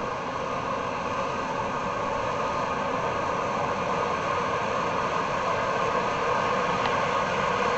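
Eurocopter EC135 police helicopter's turbine engines and rotor running during start-up: a steady rushing noise with a thin whine, slowly growing louder.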